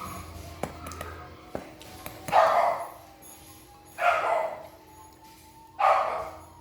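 A dog barking three times, a loud bark about every two seconds, over quiet background music.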